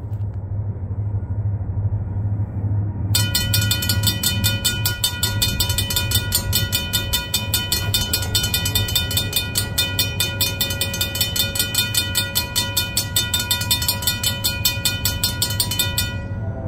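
Freight train led by an SD60 diesel locomotive passing: a steady low rumble throughout. About three seconds in, a rapid, regular clatter with ringing tones starts, and it stops abruptly near the end.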